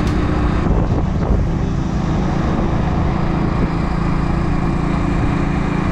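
Kawasaki W175's air-cooled single-cylinder engine running steadily on the move, under a constant rush of wind noise on the microphone.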